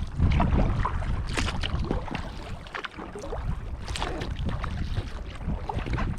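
Kayak paddles dipping and splashing, with water dripping off the blades in irregular small splashes. Wind rumbles on the microphone, strongest about the first second.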